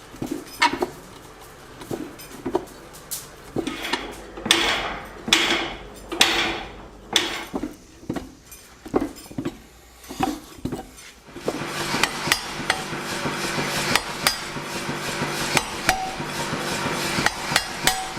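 Hammer blows on hot steel at the anvil as a 25 mm round bar of 4140 is forged into a ball-ended positive punch. The strikes come scattered for about the first ten seconds, then a quicker, denser run of blows follows.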